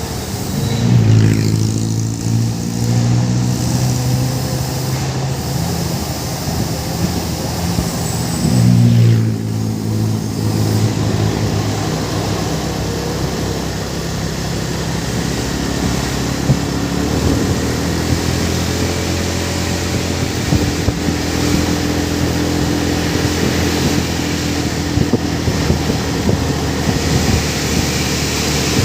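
Heavy diesel truck engine running hard under load. Its pitch drops sharply twice, about a second in and again about a third of the way through, then climbs gradually in the second half.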